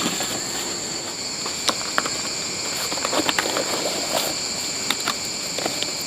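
Steady chorus of insects, two continuous high drones, with scattered short clicks and knocks over it.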